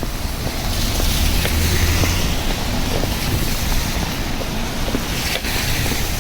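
Steady rain on a city street with wet-road ambience and faint scattered drips, and a low vehicle rumble that swells briefly about two seconds in.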